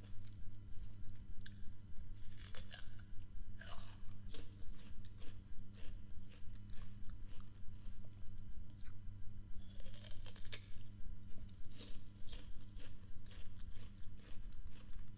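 Close-up crunching and chewing of crisp raw fruit: many small crackly bites and chews, with a few louder crunchy bites, the biggest about ten seconds in. A steady low hum runs underneath.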